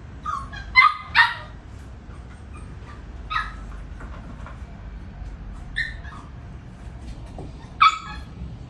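Border collie puppy giving short, high-pitched yips and barks, about six in all, with a close pair about a second in and a sharp one near the end.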